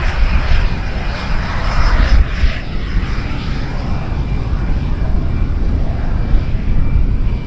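MiG-17 Fresco jet fighter's turbojet engine, heard as a continuous deep rumble with a rushing hiss over it as the jet flies around for its next pass.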